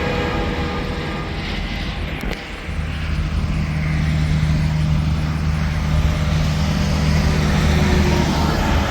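Interstate traffic passing at speed, with tyre noise and a heavy truck's steady low engine drone that sets in about two and a half seconds in and holds until near the end.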